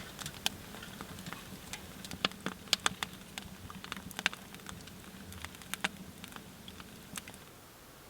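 Wood fire in a small tent wood stove crackling, with irregular sharp snaps and ticks, a few louder ones around the middle.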